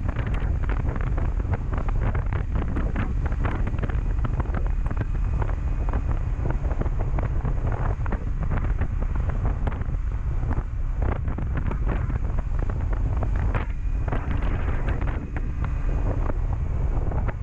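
Heavy wind buffeting on the microphone of a moving motorcycle, a dense low rumble broken by gusty bursts. The Honda CB400SF's inline-four engine runs underneath at cruising speed.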